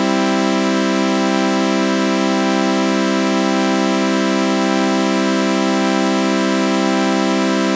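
Synthesized sawtooth-wave chord run through a flanger, held steady without change, with a faint slow sweep moving through its upper tones.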